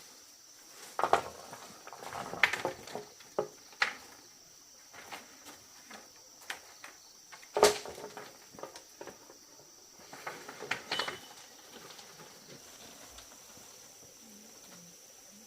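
Irregular knocks and clatters of hand work, the loudest about halfway through, dying away after about eleven seconds, over a steady high-pitched insect drone.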